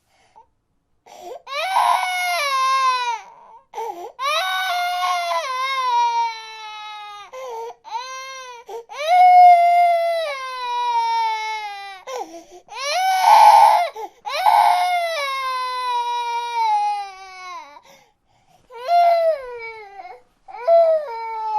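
Infant crying: a series of long wails, each sliding down in pitch, broken by short pauses for breath.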